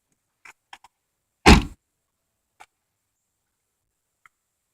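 A few faint clicks and one loud, sharp thump about a second and a half in, against near silence with the car's engine switched off.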